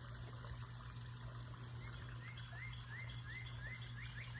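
A wild bird calling faintly: a run of short rising chirps that starts about two seconds in, at about four a second, and quickens near the end. A faint steady hum lies under it.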